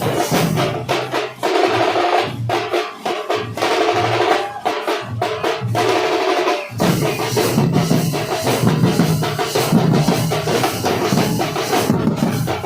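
Nasik dhol troupe playing: big dhol drums and sharp, fast tasha strokes in a dense, driving rhythm. The deeper dhol beats thin out for a few seconds, then come back in fully about seven seconds in.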